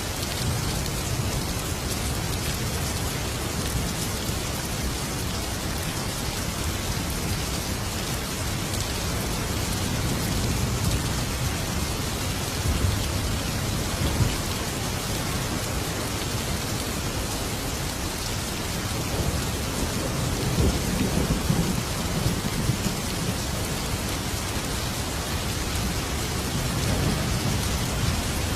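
Thunderstorm: steady heavy rain with thunder rumbling low in the background, swelling several times.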